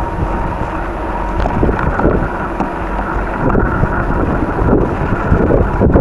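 Strong wind buffeting the microphone: a loud, uneven rumble.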